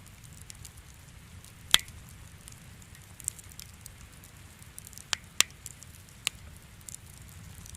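Wood fire crackling: a low steady rumble with scattered sharp pops and snaps, the loudest about two seconds in and again a little past five seconds.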